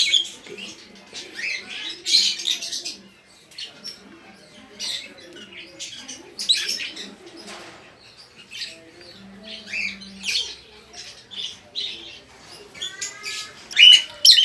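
African lovebirds chattering: many short, sharp high-pitched chirps and squeaks in quick bursts.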